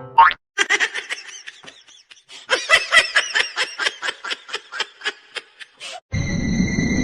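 High-pitched laughter in a fast run of short, breathy bursts, several a second, after a brief rising cry. Just after six seconds it cuts off abruptly into a steady hiss with a thin constant high whine.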